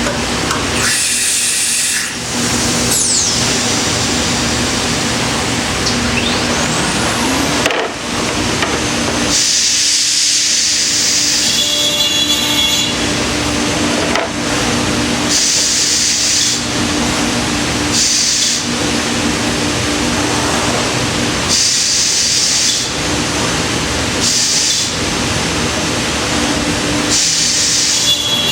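C.R. Onsrud 5-axis CNC router spindle running and cutting a wooden chair back: a steady machine hum with repeated bursts of high hiss, each lasting a second or two, as the cutter bites into the wood. A whine sweeps up in pitch about seven seconds in.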